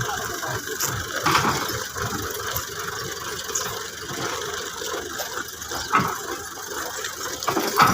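A tractor engine running steadily, with a couple of sharp knocks, one about a second in and one near six seconds.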